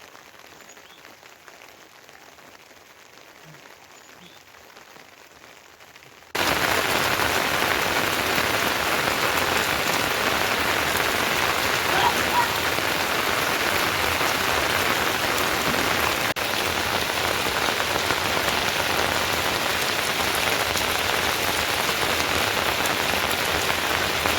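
Steady heavy rain. It is a faint hiss for about six seconds, then turns abruptly much louder into a dense, even downpour.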